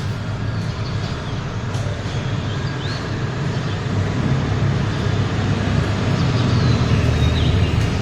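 Steady low rumble of a motor vehicle with road noise, slowly getting louder, with a few faint high chirps above it.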